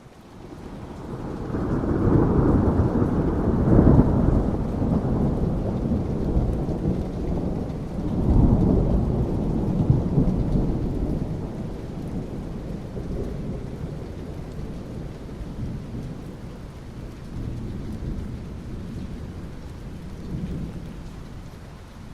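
Long rolling thunder over steady rain. The deep rumble builds over the first two seconds, swells again about eight seconds in, then slowly dies away, leaving the rain.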